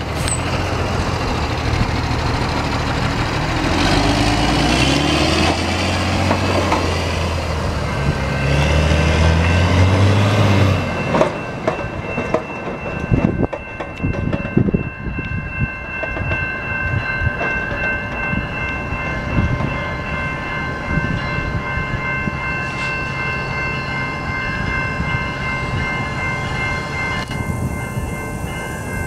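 Passenger train pulling out of the station. For the first ten seconds or so a diesel engine works with low tones that step up in pitch. Then a steady high-pitched squeal from the wheels comes in, with scattered clicks as the wheels cross rail joints.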